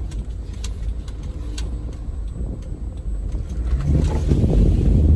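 Car engine and road rumble heard from inside the cabin, getting louder about four seconds in as the car speeds up, with a few faint clicks.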